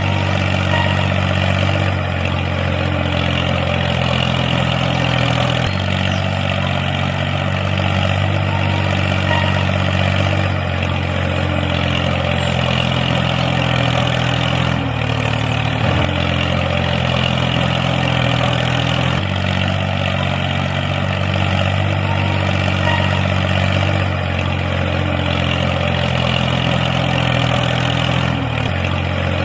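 Mini model tractor's motor running steadily, with its pitch and load shifting slightly every few seconds.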